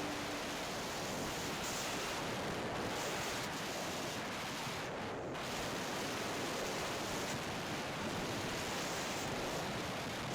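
Steady rushing wind noise on the microphone, even throughout, with no distinct engine note or other event standing out.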